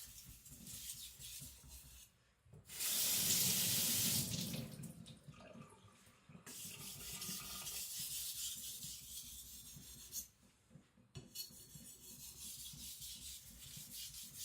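A niolox-steel nakiri blade stroked back and forth over a wet sharpening stone in quick, even strokes. About three seconds in a faucet runs for a couple of seconds, the loudest sound here; then the stroking on the stone resumes.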